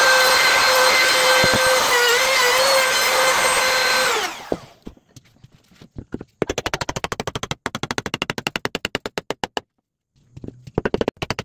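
Woodworking power tool's motor running steadily at speed, then switched off and winding down about four seconds in. After a short pause comes a fast, even run of sharp taps, about ten a second, that breaks off briefly near the end.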